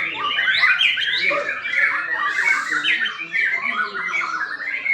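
White-rumped shamas singing in a songbird contest, a dense stream of rapid, overlapping whistled and chattering phrases with no pause.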